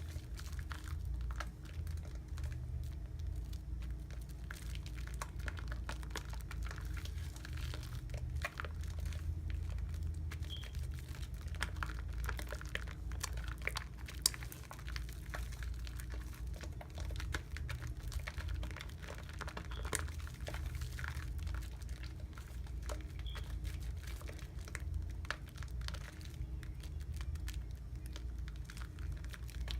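Wet soap lather being worked by hand, a dense run of small crackles and pops from the bubbles, over a steady low hum.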